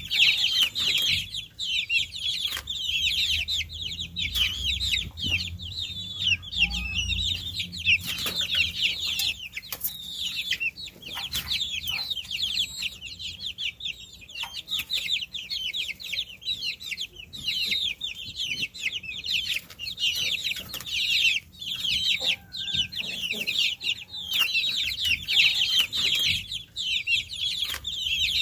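A flock of baby chicks peeping continuously, many short high-pitched chirps overlapping one another.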